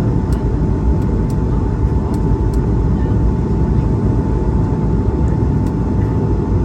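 Steady cabin noise inside an Airbus A220-300: a deep rumble of airflow and its Pratt & Whitney PW1521G geared turbofan engines, with a thin steady whine running through it.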